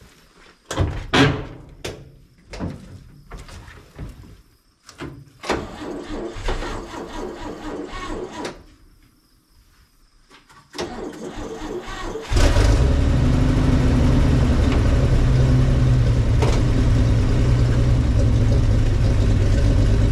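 A 1961 Chevrolet Viking 60 truck's straight-six is cranked on the starter: several short tries, a longer crank and a pause. Then comes one more crank, and about twelve seconds in the engine catches and runs steadily.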